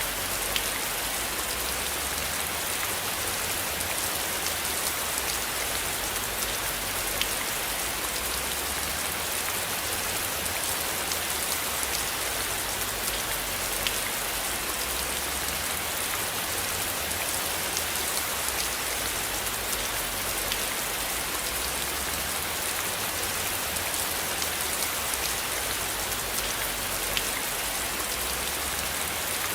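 Steady rain falling on a surface, an even hiss with faint drop ticks scattered through it. Underneath runs a low rumble that swells and fades every few seconds.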